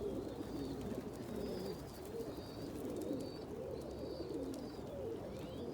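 Domestic fancy pigeons cooing, several overlapping, wavering coos repeating throughout, with faint short high chirps above them.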